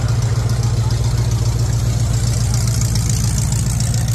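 Mid-mounted diesel V8 idling steadily, an even low rumble.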